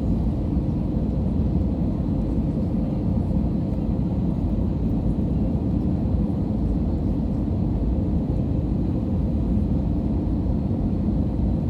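Steady low rumble of an Airbus A320 in flight, heard inside the passenger cabin: engine and airflow noise with a faint steady hum, unchanging in level.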